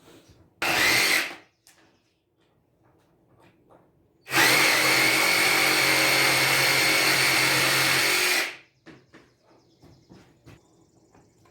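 Handheld power tool cutting a part off the pit bike: a short burst, then a steady run of about four seconds with a high whine, switching off abruptly.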